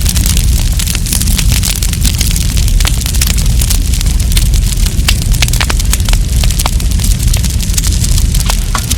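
Campfire crackling and popping, with many quick irregular snaps over a steady low rumble of the burning fire.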